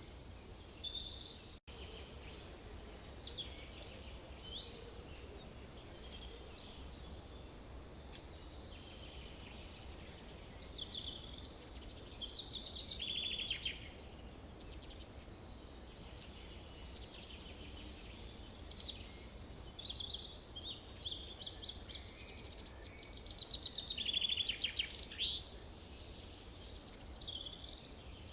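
Forest ambience: several songbirds chirping and whistling over a steady low background rumble, with two louder rapid trills, one about halfway through and one near the end. The sound cuts out for an instant near the start.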